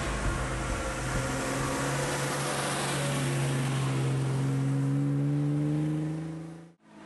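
Classic Austin-Healey sports car's engine pulling uphill as it drives past, its note rising steadily in pitch and loudest as it goes by. The sound fades out abruptly near the end.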